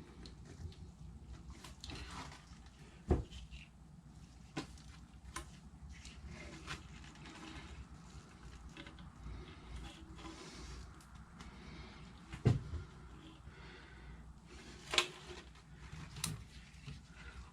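Scattered light knocks and clicks of parts being handled, over a low steady background hum; the sharpest knocks come about three seconds in and three times near the end.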